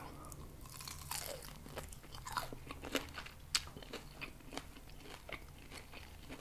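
Close-miked biting and chewing of grilled pork rib: irregular sharp mouth clicks as the meat is bitten off and chewed, the sharpest about three and a half seconds in.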